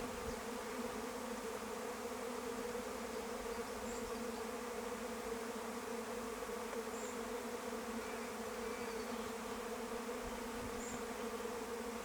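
Swarm of honeybees buzzing: a steady hum of many bees in flight around a swarm trap, the swarm settling in to make it home.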